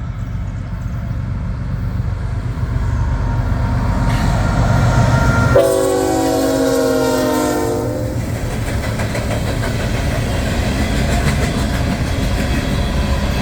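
Norfolk Southern GE ET44AC diesel locomotive hauling an empty coal train, with a heavy low rumble that builds toward the middle. About halfway through, the multi-tone air horn sounds once for about two and a half seconds, falling slightly in pitch. The rumble of the train rolling by continues after the horn.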